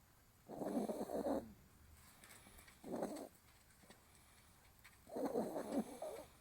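Pet dog snoring in its sleep: three rough snoring breaths, the first and last about a second long and the middle one shorter.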